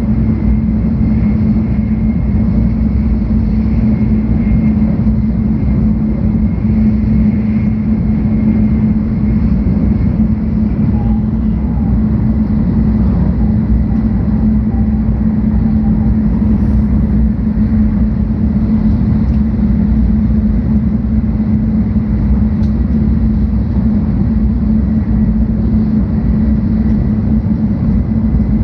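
Cabin noise of a 700 Series Shinkansen running between stations, heard from inside the passenger car: a steady low rumble with a constant hum.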